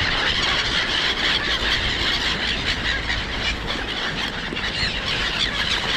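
Many birds calling at once in a dense, overlapping chatter of high squeals. Wind rumbles steadily on the microphone underneath.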